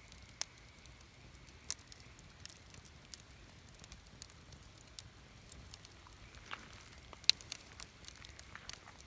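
Wood campfire crackling, with irregular sharp pops over a low hiss; the loudest pop comes about seven seconds in.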